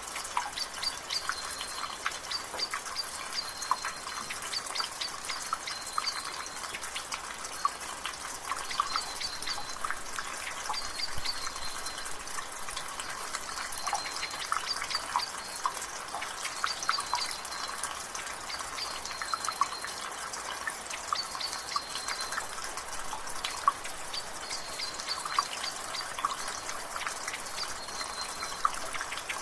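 Water dripping from a gutter over steady drizzle: irregular sharp drips over an even hiss. A bird's short high call repeats every few seconds in the background.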